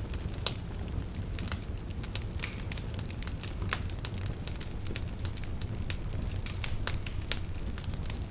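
Campfire burning, with frequent irregular sharp crackles and pops over a low steady rumble; the loudest pop comes about half a second in.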